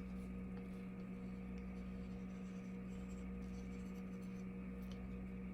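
Steady low hum with a few faint light ticks.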